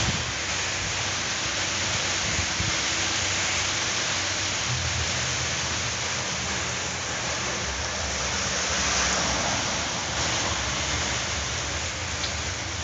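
Rain pouring steadily during a spring thunderstorm, a dense even hiss. There is a sharp knock right at the start, and a low rumble joins about four and a half seconds in.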